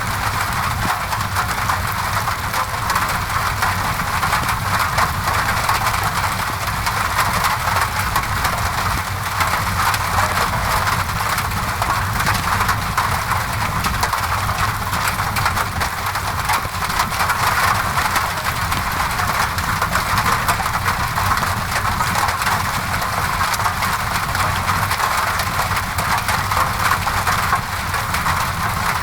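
Steady rain against a window mixed with a crackling fireplace: an even hiss with a low rumble under it and many small crackles.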